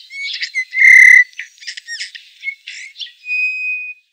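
Birdsong: a run of quick high chirps and whistles, with a loud whistled note about a second in and a long, steady whistle near the end that stops abruptly.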